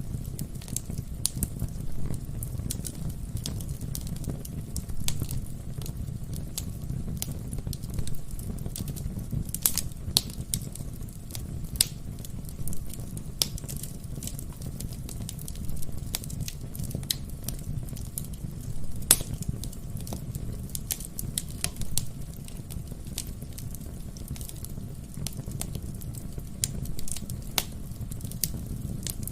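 Wood fire burning in a fireplace: a steady low rumble of flames with irregular sharp crackles and pops of burning logs, a few louder pops scattered through.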